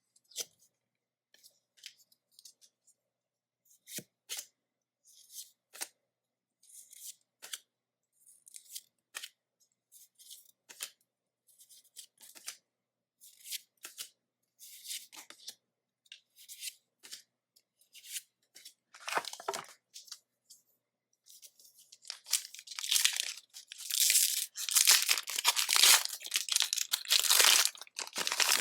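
Pokémon trading cards being handled, with scattered short flicks and rustles, then a foil booster pack wrapper crinkling and tearing open through the last several seconds.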